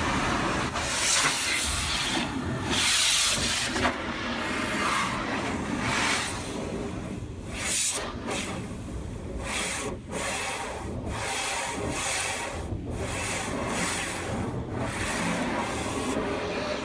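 A car being washed by hand: water spray and rubbing noise, with hissing bursts that swell and fade several times.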